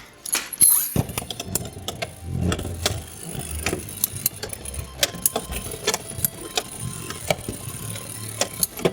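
Two Beyblade X spinning tops launched into a plastic stadium about a second in, then spinning and clashing, with rapid sharp clicks and rattling as they collide and scrape.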